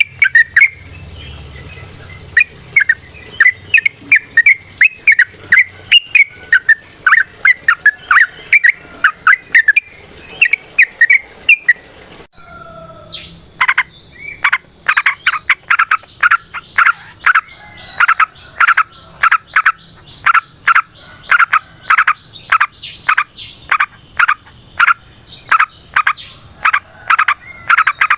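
Yellow-vented bulbul (trucukan) singing a long, rapid run of bubbling chirps. About twelve seconds in the song breaks off, then resumes as a fast series of sharp repeated notes, two to three a second.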